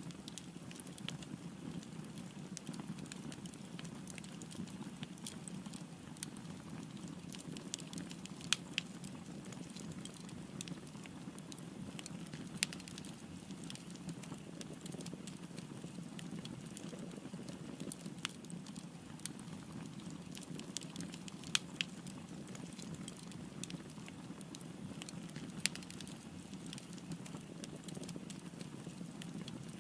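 Wood fire burning with a steady low rumble, crackling and popping at irregular moments, with a handful of louder pops.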